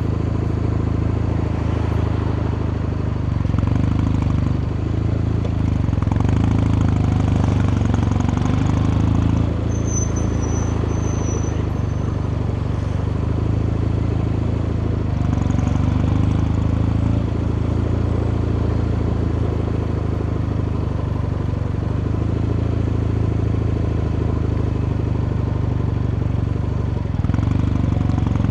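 Kawasaki Meguro K3's air-cooled vertical-twin engine and exhaust running under way, the note rising and falling several times with throttle and gear changes.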